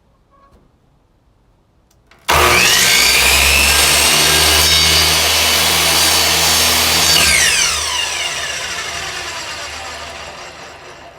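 Electric miter saw switched on, its motor running at full speed for about five seconds, then released and spinning down with a falling whine, trimming a rough edge off a piece of wood.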